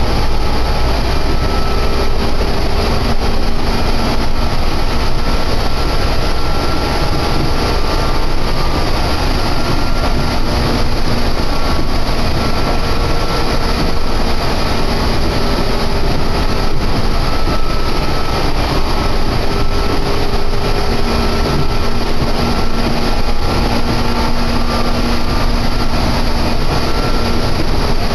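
Meitetsu electric train running at speed: a steady, loud rumble and rush of wheels on rail, with faint steady tones fading in and out over it.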